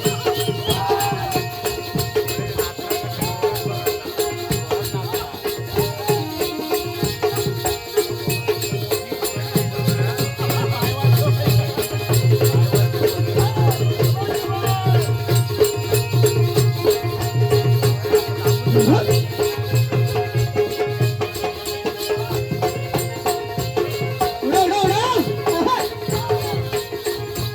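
Live Konkan folk music for a balya (jakhadi) dance: singing over a fast, steady, jingling percussion rhythm with a held tone underneath.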